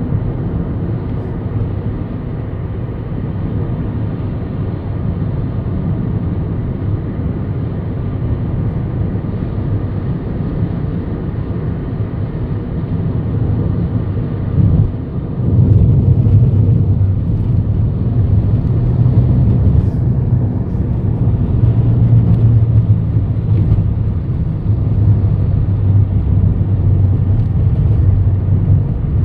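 Car driving noise, a steady low rumble of engine and tyres on the road as heard from inside the car. It grows louder about halfway through.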